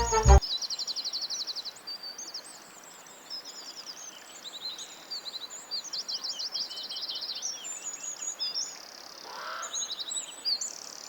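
Several small songbirds chirping and singing at once, high-pitched, with overlapping calls and fast trills of repeated notes.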